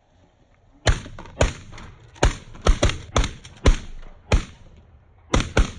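A volley of about ten shotgun shots fired by several waterfowl hunters at incoming geese. Some shots come in quick pairs and the rest are spaced irregularly over about five seconds.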